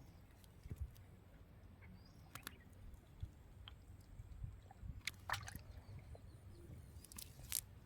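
Water sloshing with low handling noise and a few sharp clicks, the clearest about a third of the way in and again in the second half.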